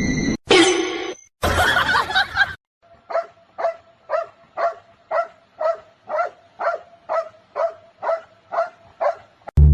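A dog barking again and again at an even pace, about two short barks a second, after a couple of seconds of louder mixed noise.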